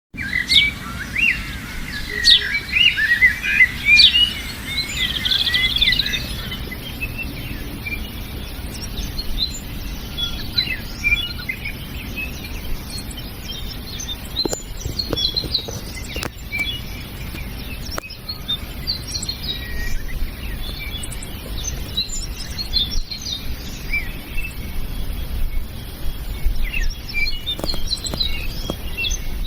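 Several wild birds chirping and singing, in short rapid notes that are busiest and loudest in the first six seconds, then carry on more sparsely over a steady low rumble.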